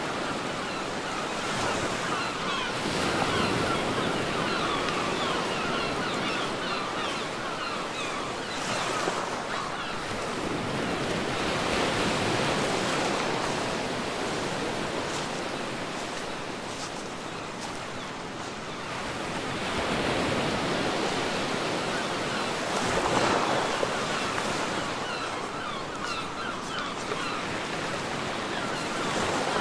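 Ocean surf washing onto a beach: a steady rush of waves that swells and eases as each one breaks, with wind.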